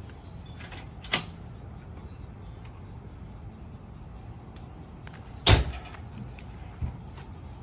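Knocks from handling an aluminum boat fuel tank: three sharp knocks, the loudest about five and a half seconds in, over a steady low rumble.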